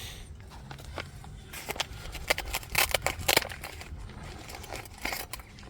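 A run of sharp clicks and scrapes from camp cooking gear being handled, most of them bunched in the middle, with a few more near the end.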